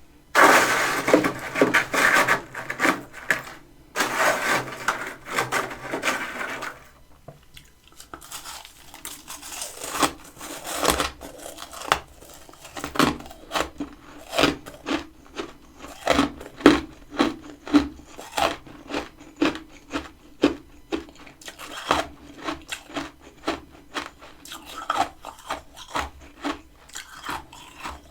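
Humidifier-built freezer frost scraped loose in two long scraping stretches, then chewed in a run of close, crisp crunches, about two a second.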